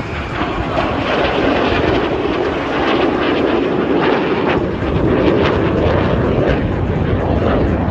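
Jet aircraft in flight: a loud, steady roar of jet engines that swells a little after the first second.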